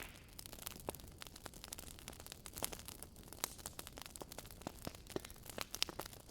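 Wood fire burning in a fireplace: many quick, irregular crackles and pops over a faint low rumble of the flames.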